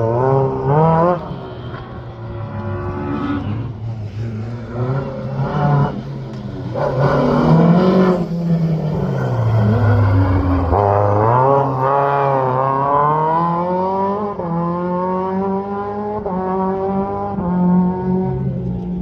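Rally car engine revving hard, its pitch climbing and breaking off again and again as it shifts up through the gears, with some tyre squeal.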